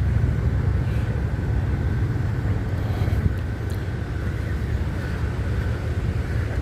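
Steady low rumble of vehicle traffic running close by, with a faint steady whine above it.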